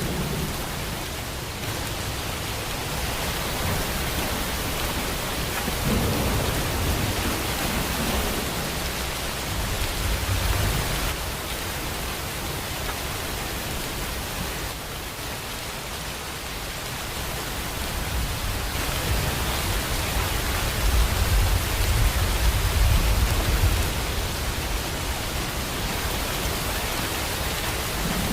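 Steady heavy rain with a low rumble of thunder that swells several times and is loudest in the last third.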